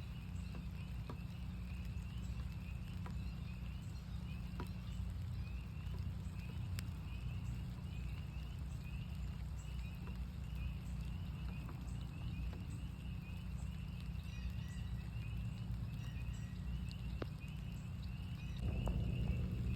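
Chorus of northern spring peepers: many short, slightly rising high peeps overlapping in a steady stream. Scattered raindrop ticks and a steady low rumble sit underneath, and a louder low whoosh swells up near the end.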